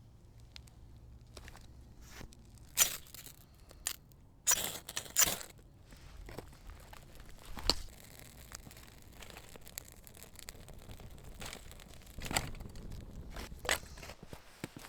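A handful of short, sharp rustles and taps spaced several seconds apart, like things being handled or rummaged through, with quiet stretches between.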